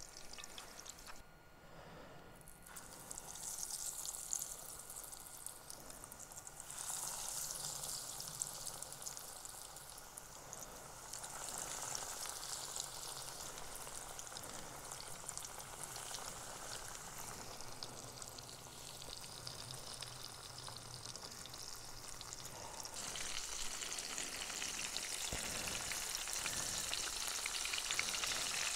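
Breaded oysters frying in hot oil and butter in a cast iron skillet: a steady sizzle that grows louder in several steps as more oysters go into the pan.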